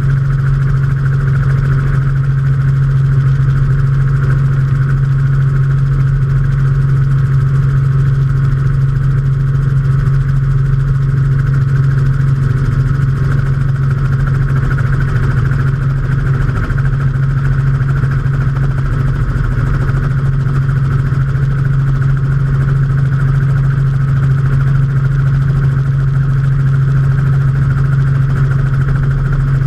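Robinson R44 helicopter in flight, heard from on board: its six-cylinder Lycoming piston engine and rotors make a loud, steady drone with a strong low hum that holds unchanged throughout.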